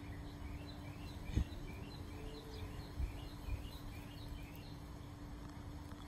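Small birds chirping in quick, short, repeated notes over a low outdoor rumble and a faint steady hum, with a single thump about a second and a half in.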